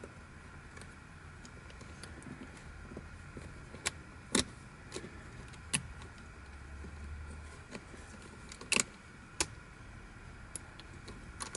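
Plastic twisty-puzzle pieces clicking and knocking as the puzzle is handled and assembled, in a handful of separate sharp clicks, two of them louder, over a steady faint hum.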